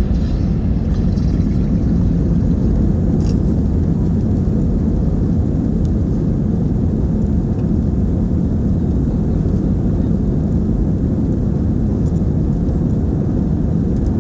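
Steady low rumble of a jet airliner, heard inside the passenger cabin.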